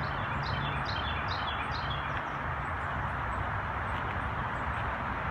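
Steady rush of distant highway traffic, with a bird singing a quick run of short, high chirps over it in the first two seconds.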